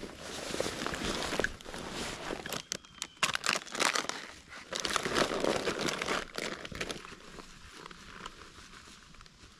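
Crinkling and rustling of nylon bags and camping gear being handled and stowed in a tent, with scattered crunches and clicks that are busiest in the middle and die down near the end.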